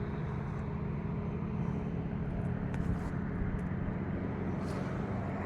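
Steady low hum of a running vehicle engine, unchanging throughout, over a light wash of outdoor noise.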